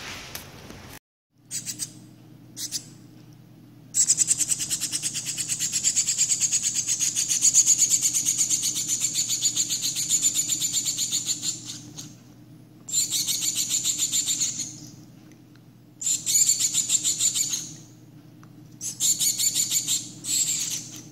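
Shiny cowbird nestling begging for food, gaping while it calls in rapid strings of high-pitched notes. It gives one long bout of about eight seconds, then three shorter bouts.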